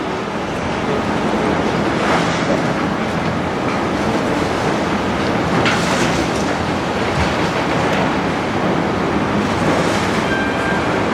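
Large Doosan demolition excavator working under load: a steady engine and hydraulic rumble, with a few scattered knocks and crunches of breaking debris.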